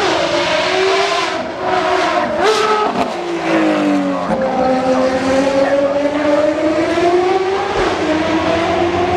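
Ferrari V12 track-car engine running at low revs, its pitch dipping, then rising slowly and easing off as the throttle is worked. A sharp crack comes about three seconds in, just before the pitch drops.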